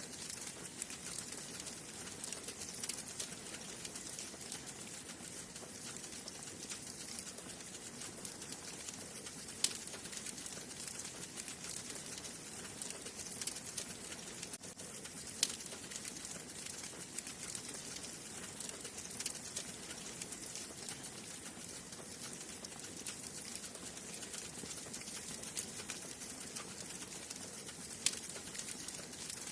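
Wood fire burning in a fireplace: a steady soft hiss with constant small crackles and an occasional louder pop, three of them standing out over the stretch.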